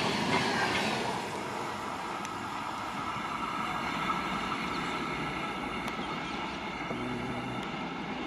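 Electric-hauled passenger train running past on the track at speed, its noise loudest at first and dying down over the first couple of seconds as it moves away, leaving a steadier rumble of wheels on rail.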